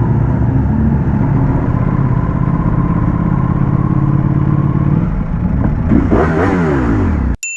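Ducati Panigale V4S's V4 engine running steadily, then revving up with a rising pitch about six seconds in. It cuts off abruptly near the end into a short, bright ding.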